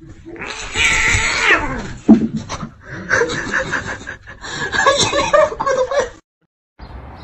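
A cat yowling in a long, falling cry, followed by a run of choppy, repeated laughter-like sounds; the sound cuts off abruptly near the end.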